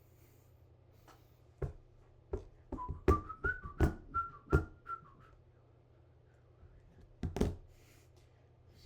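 A person whistling a few short notes that rise slightly in pitch, mixed with a series of sharp knocks or taps. The knocks are louder than the whistling; most are bunched around it, and a close pair comes near the end.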